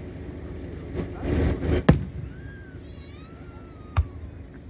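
Aerial firework shells going off: a rushing swell ends in one sharp loud bang about two seconds in, and a second, shorter bang comes near the end. Faint wavering whistling tones sound between the two bangs.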